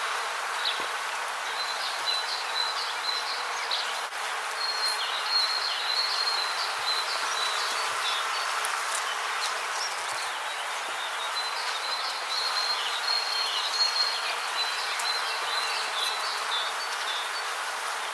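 Rainforest ambience: a steady hiss under high, rapid chirping calls that come and go in two long runs, one early and one in the second half.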